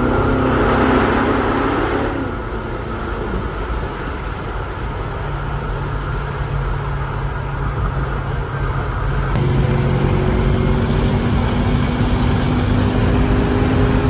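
A car engine running at a steady speed, with a noisy rev in the first two seconds and the engine note shifting to a new steady pitch about nine seconds in.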